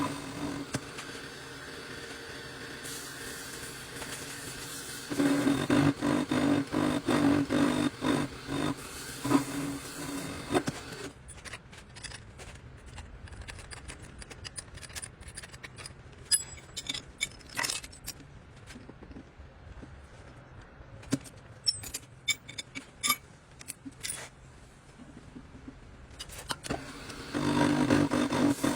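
Metal parts clinking, tapping and scraping against each other, many sharp ticks in the quieter middle stretch. A loud steady drone with a strong low tone plays during the first third and again near the end.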